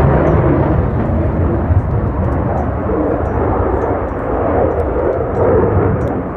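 Loud, steady jet noise from an RCAF CF-18 Hornet's twin General Electric F404 turbofans in flight, a deep rumble.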